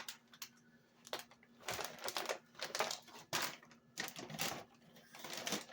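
Food containers and bottles being moved around on a pantry shelf: a run of irregular clicks, knocks and rustling.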